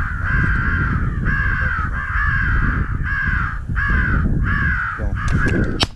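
Crows cawing over and over, a rapid series of harsh caws about one every 0.7 s with no break. A single sharp crack comes just before the end.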